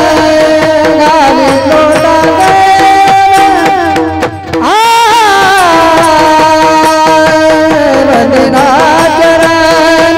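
A Marathi devotional abhang sung with instrumental accompaniment and percussion: long held, ornamented vocal notes, with a short break and a rising swoop into a new phrase about halfway through.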